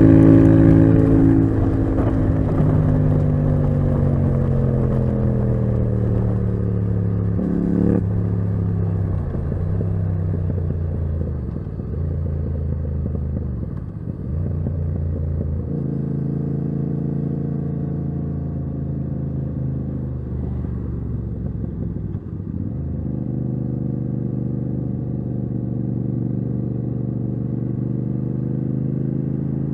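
Yamaha MT-07's parallel-twin engine through a titanium Akrapovic exhaust, heard from the rider's seat: the revs fall off a loud pull over the first several seconds, the note dips briefly a few times through the middle, then it runs at steady revs.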